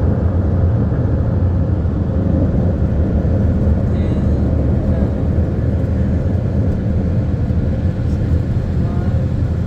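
Car wash dryer blowers running, a steady loud rush of air over a deep rumble.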